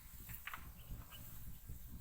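Faint low background rumble with a few soft, short clicks, the clearest about half a second in.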